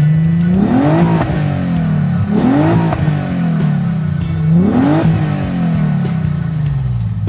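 Racing car engine revving: the pitch climbs sharply, then sinks away slowly, over and over about every two seconds, above a steady lower engine hum.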